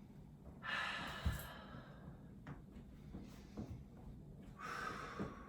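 Two long audible exhales through the mouth, about a second in and near the end, with a soft thump and a few light knocks of hands and feet landing on a yoga mat in between.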